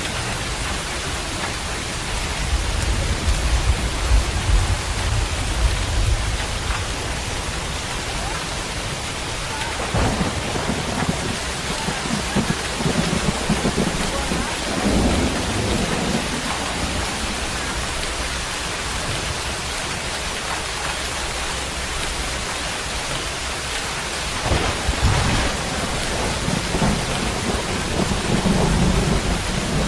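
Steady rain falling, with low rolling rumbles of thunder swelling three times: near the start, in the middle and near the end.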